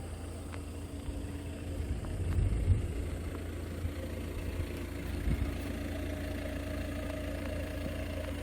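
A steady low rumble with a faint hum, like an engine running.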